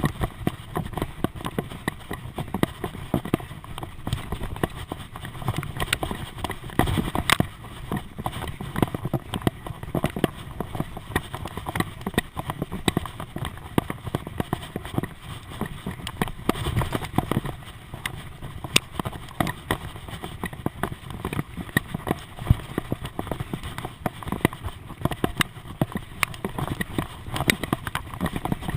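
Bicycle rattling and knocking over a rough surface: a continuous run of irregular clicks and clatters, with low rumbling gusts of wind over the microphone.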